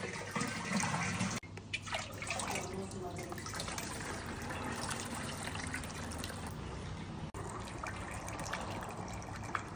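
Şalgam juice running in a steady trickle into a container as it is filled.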